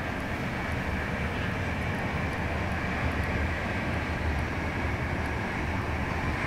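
Steady running noise of a passenger train heard from inside a first-class compartment of a 156A coach: a low rumble under an even hiss, with a few faint light ticks.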